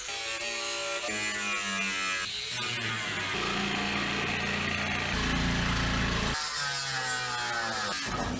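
A power saw cutting through the sheet-metal floor of a truck cab. Its pitch wavers and changes abruptly several times as it bites and the cut goes on.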